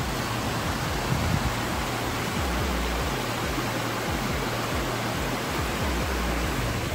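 Steady rush of a waterfall, an even roar of falling water with no letup.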